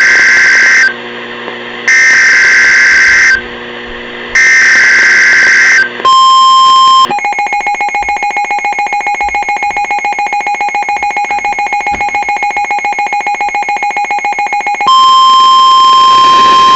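A NOAA Weather Radio alert sequence: three screeching digital SAME header bursts, then the steady 1050 Hz warning alarm tone. The steady tone breaks into a rapid pulsing beep for about eight seconds, then returns steady. The sequence signals a warning about to be read.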